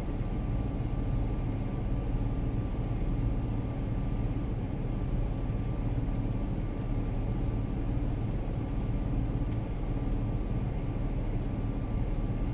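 Steady vehicle engine and road rumble heard from inside the cab, with no change in pitch or level.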